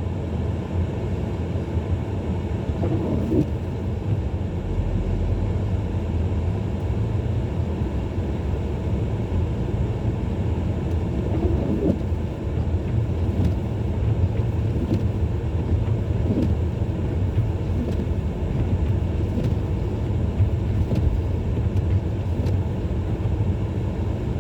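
Steady low rumble of a 2017 Ford Edge SEL driving slowly on snowy roads, heard from inside the cabin: engine and tyre road noise.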